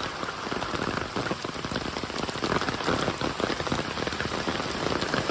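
Rain falling steadily, a dense patter of drops hitting the ground and standing floodwater.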